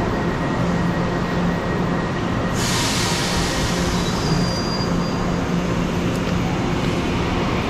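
Electric commuter train at a station platform, running with a steady rumble and a low hum. A rush of hiss comes in about two and a half seconds in and fades.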